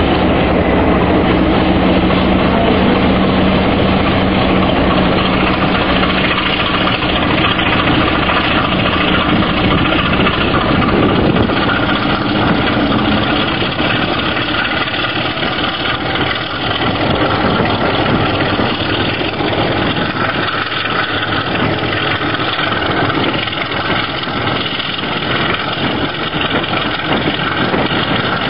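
Class 33 diesel locomotive's Sulzer eight-cylinder engine running loud and steady. A held low tone in the first half drops away about halfway through, leaving the rougher engine sound.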